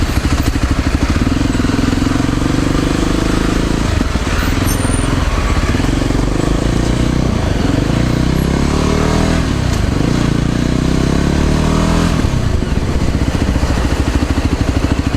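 Motor scooter engine running while riding, its pitch rising and falling a few times as the throttle changes.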